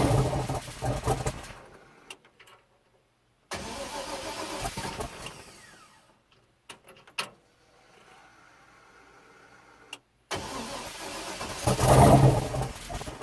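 Swapped-in 6.0-litre V8 in a Chevy S-10 on its first start attempts: it cranks and fires in several short bursts, sputtering and dying away between tries, with the loudest burst near the end.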